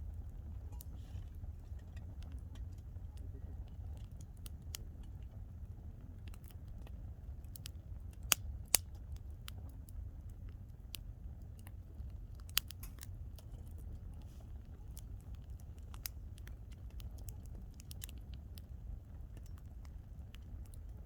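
Wood campfire crackling, with irregular small snaps throughout and a few sharp, loud pops about eight and twelve seconds in, over a steady low rumble.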